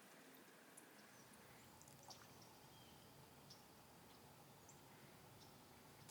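Near silence: faint outdoor background with a few scattered soft, high ticks or chirps.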